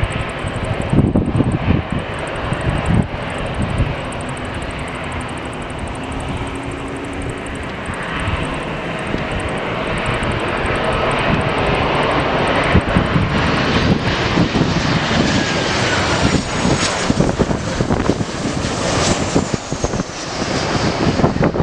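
Jet aircraft engines passing, the noise building over the second half, with high whines that fall in pitch near the end. Gusts of wind rumble on the microphone.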